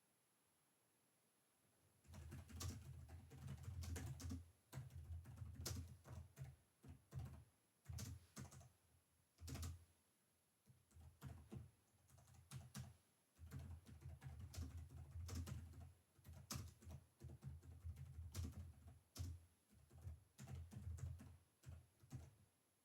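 Typing on a computer keyboard: faint, quick runs of key clicks in irregular bursts with short pauses, starting about two seconds in, with a dull low thud under the keystrokes.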